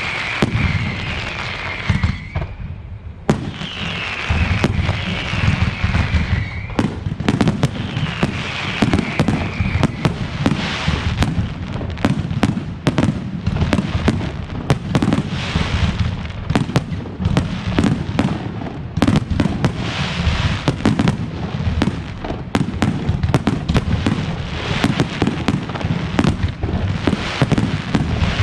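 Fireworks display: a dense, continuous barrage of bangs and crackles over a deep rumble. Falling whistles sound during roughly the first ten seconds, with a brief lull near three seconds in.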